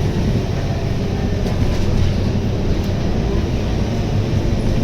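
Scania K230UB city bus running, its Scania DC9 9.3-litre engine and the drive making a steady low rumble, with a few faint rattles.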